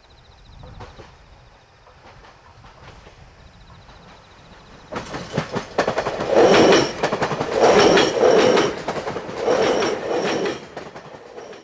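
JR Hokkaido 789-1000 series limited-express electric train approaching, faint at first, then passing close and loud from about five seconds in, its wheels clattering over the rail joints in regular groups as each car's bogies go by. The sound cuts off abruptly at the end.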